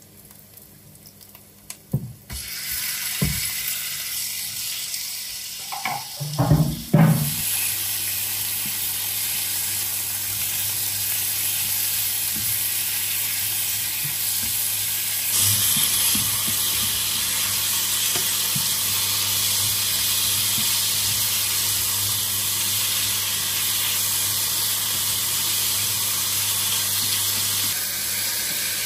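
Sliced meat frying with onions in a hot nonstick pan: a steady sizzle starts about two seconds in as the meat goes into the oil. A few knocks come a few seconds later, and the sizzle grows louder about halfway through.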